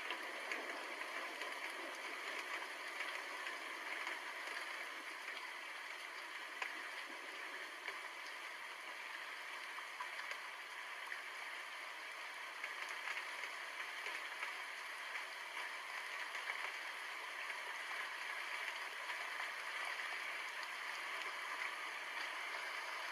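Steady rain falling: an even hiss with no thunder.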